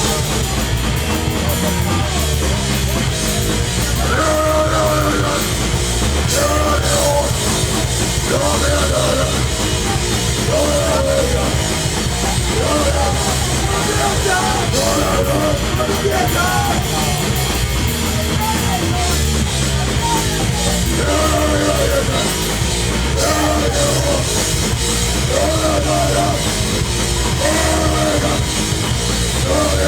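Live hardcore punk band playing loud and fast: distorted electric guitars and bass over a drum kit with constant cymbal wash.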